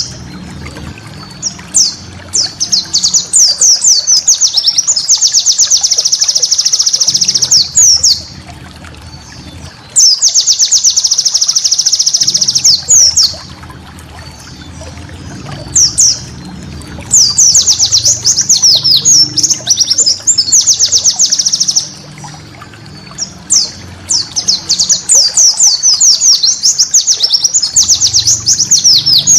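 White-eye (pleci) singing: high-pitched, rapid twittering trills delivered in bouts of a few seconds, with short pauses between bouts.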